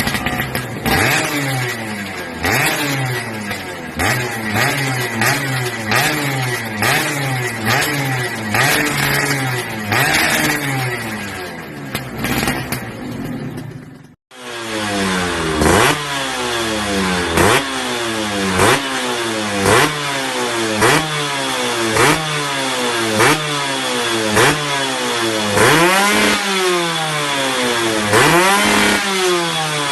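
Yamaha F1ZR two-stroke engine with a racing exhaust, revved over and over in quick throttle blips, each rising and falling in pitch. About halfway through it cuts abruptly to another F1ZR exhaust revved in sharper blips about once a second.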